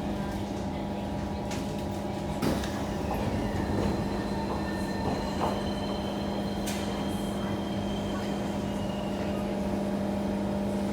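Kawasaki C151 electric multiple unit in motion, heard as a steady electrical hum and rail rumble with a faint high whine. Two sharp clacks sound a few seconds apart as the wheels pass over rail joints.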